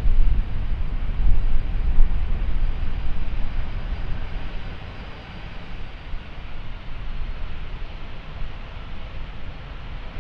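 Jet airliner engines rumbling, loudest at first and fading about halfway through.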